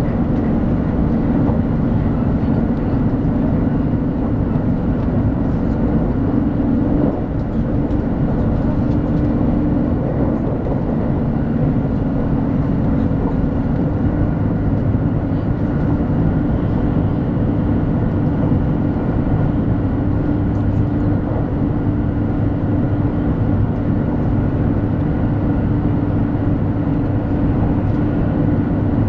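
Running noise inside the cabin of a 200 series Shinkansen at speed: a loud, steady low rumble.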